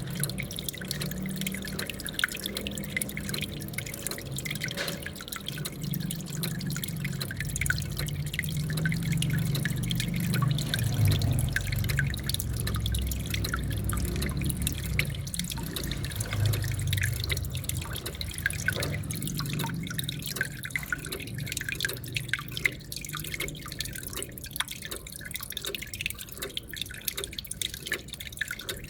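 Water from a small aquarium waterfall feature splashing and trickling, with many quick drips over a low, steady rumble that eases after about two thirds of the way through.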